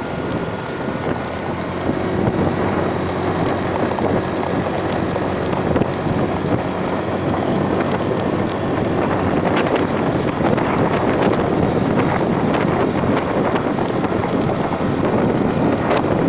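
Wind buffeting the microphone of a moving vehicle, with the vehicle's engine running steadily underneath.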